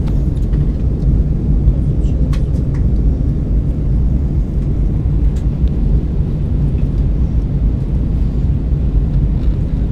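Steady low rumble of airflow and engines heard inside an Airbus A320 cabin in flight during descent, with a few faint clicks.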